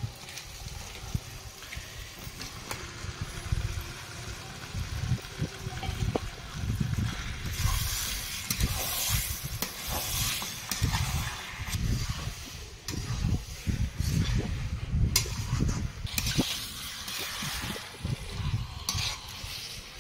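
Raw chicken pieces sizzling in hot spiced oil in a kadai, stirred with a metal spatula that scrapes and clicks against the pan. The sizzle swells twice, about eight seconds in and again near the end.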